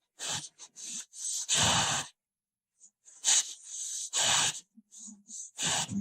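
A dog making a run of short, noisy snorts and huffs through the nose, about a dozen irregular breathy bursts, the loudest near the middle.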